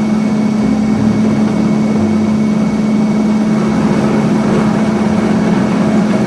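Train running: a steady engine hum over rumbling running noise, loud and unchanging.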